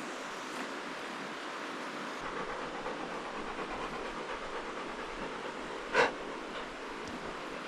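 Steady rushing of river water over rapids, with one short, sharp sound about six seconds in.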